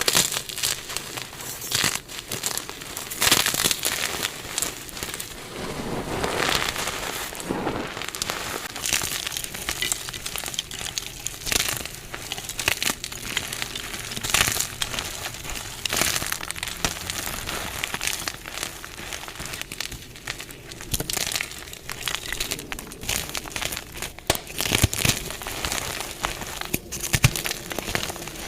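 Dyed gym chalk blocks being crushed and crumbled, a dense run of irregular crunches and crackles.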